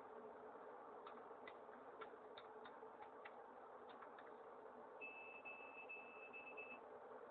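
Near silence: faint background hiss with scattered faint ticks, and a faint high-pitched beeping tone about five seconds in.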